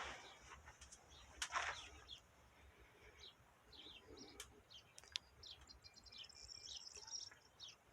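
Faint small birds chirping, with a quick high trill about six seconds in and a few scattered sharp clicks.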